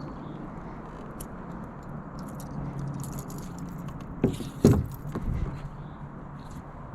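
Steady wind and water noise around a kayak, with light clicks and rattles and two sharp knocks a bit over four seconds in, the second the loudest.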